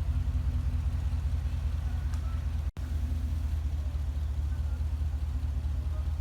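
Jeep engine idling steadily, a low, even rumble that drops out for an instant a little under halfway.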